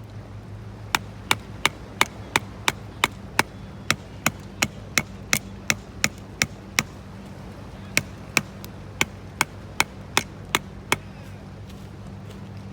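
A series of sharp, evenly spaced knocks, about three a second, in two runs broken by a short pause about seven seconds in, over a steady low hum.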